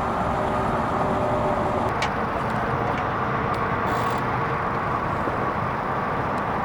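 Steady vehicle noise: a constant hum with a few faint steady tones in it, and a light click about two seconds in.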